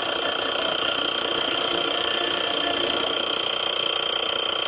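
Montgomery Ward CED videodisc player running with a steady mechanical drone and whine, sounding like a lawnmower. The noise comes from a newly fitted drive pulley set too low.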